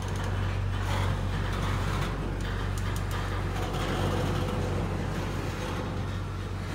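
Double-stack intermodal freight train rolling slowly past: a steady low rumble of the well cars' wheels on the rails, with a few faint clicks.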